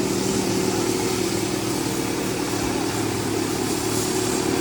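Diesel tractor engine running steadily at constant revs.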